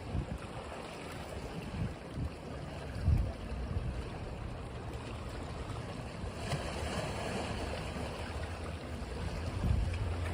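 Ocean surf washing onto a beach as a continuous rush, with a wave surging in about six and a half seconds in. Irregular low rumbling of wind buffets the microphone.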